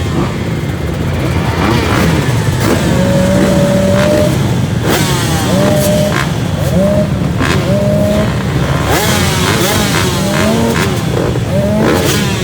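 Several motocross bikes running on the track, their engines revving up and falling back again and again with the gear changes, several at once.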